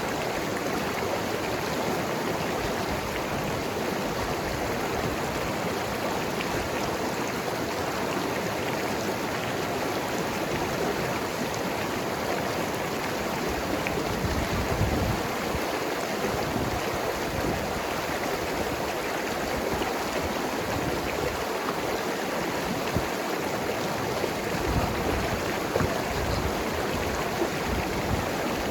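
Mountain river flowing and gurgling over rocks: a steady rush of water with small uneven surges.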